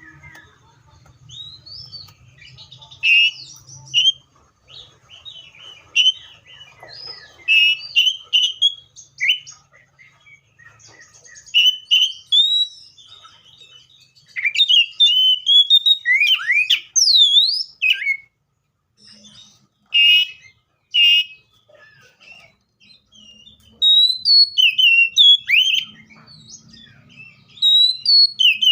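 Seychelles magpie-robin singing: a varied run of loud whistled phrases, short chirps and swooping glides, delivered in spurts with brief pauses between them.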